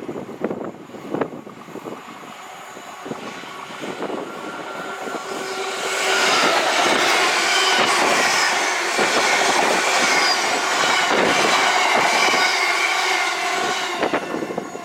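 A train passing close by: its noise builds over the first few seconds, stays loud for about eight seconds, then drops away near the end.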